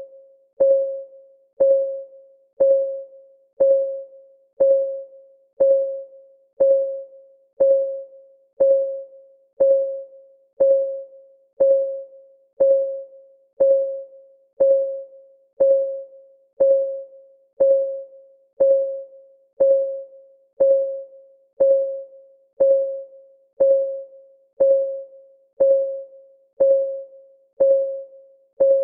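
Clock-ticking sound of a countdown timer: one tick about every second, even and unchanging, each tick a short pitched tone that dies away quickly.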